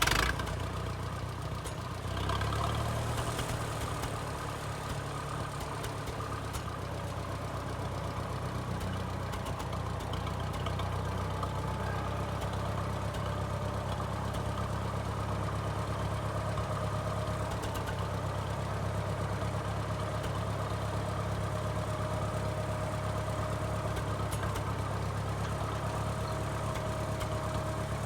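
A 1956 Minneapolis Moline tractor's 403 cubic-inch LP-gas engine running just after starting. It picks up briefly about two seconds in, then idles steadily.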